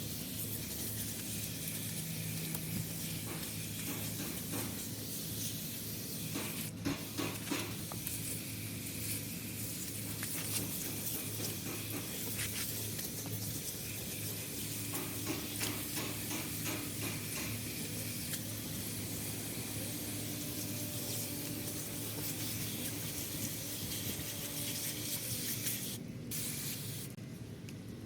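Aerosol spray paint can (rattle can) spraying, a steady hiss with short breaks, which stops near the end. A steady low hum runs underneath.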